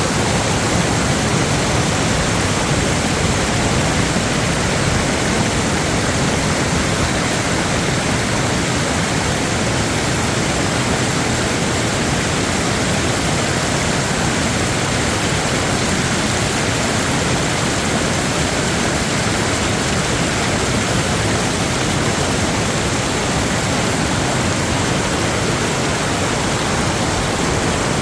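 Loud, steady rush of floodwater, an even roar with no breaks or changes.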